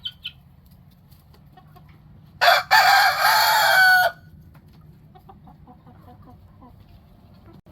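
A rooster crows once, about two and a half seconds in, a single call lasting under two seconds. Faint chicken clucks sound now and then around it.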